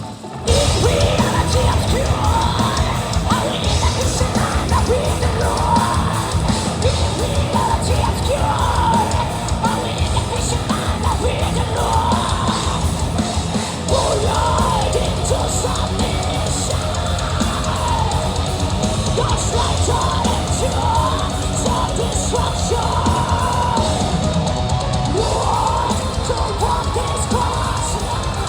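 Live heavy metal band playing at full volume: drums and distorted guitars under a female vocalist who alternates between singing and screaming.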